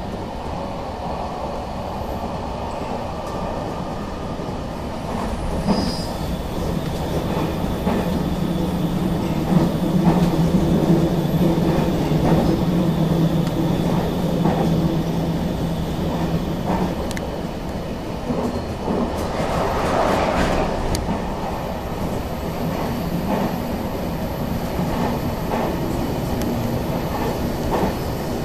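Running noise inside an electric train at speed: a steady rumble of wheels on rail with scattered clicks over rail joints. A low steady hum comes in about six seconds in and fades out after about ten seconds.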